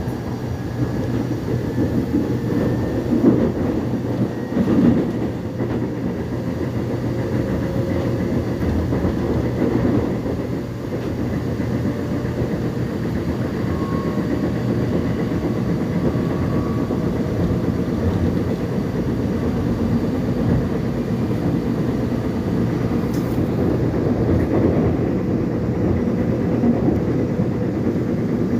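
Korean subway train heard from inside the car while running: a steady low rumble of wheels on track, with faint high whining tones drifting in and out.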